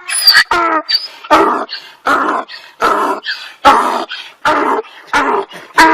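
A dog giving about ten short barks and yelps in an uneven run, roughly two a second, some with a clear pitch.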